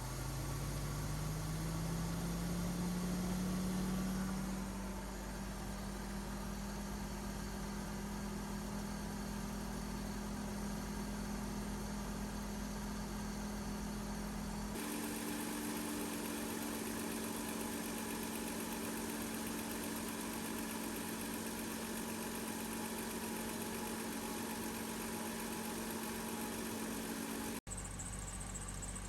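BMW E39 engine running at idle: its pitch rises over the first few seconds and then holds steady. After a cut about halfway through, it idles steadily again.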